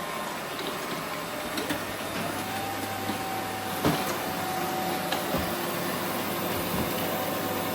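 Roomba robot vacuum running, its motor and brushes whirring steadily. A steady tone comes in about two and a half seconds in, and there is a sharp knock about four seconds in.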